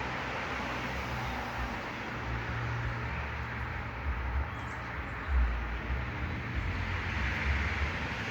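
Outdoor backyard ambience: a steady hiss of distant road traffic, with uneven low rumbles of wind on the microphone, the strongest about five seconds in.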